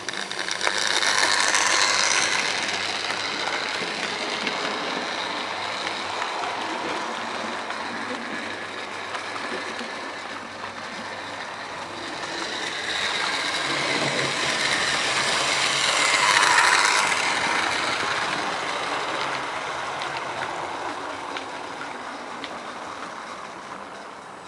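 Airfix OO gauge GWR 61xx model tank locomotive running on its track, motor whirring and wheels clattering over the rails as it hauls five coaches round a test gradient without slipping. It gets louder twice, about two seconds in and again past the middle, then fades toward the end.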